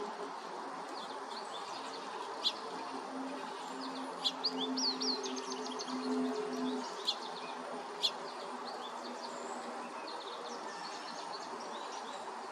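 Backyard songbirds chirping and calling in short, high notes, with a few sharp chip notes. A low, steady hum runs under them in the middle of the stretch.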